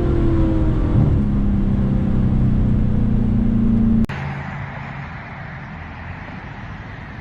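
Audi S6's single-turbo 4.0 V8 running at a steady engine speed for about four seconds. Then the sound cuts off abruptly to a quieter, steady engine and road noise.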